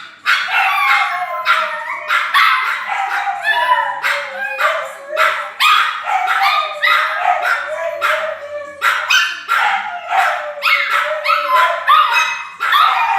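Several pet dogs barking and howling nonstop in an excited frenzy. Rapid, overlapping barks ride over a continuous wavering howl that rises and falls in pitch.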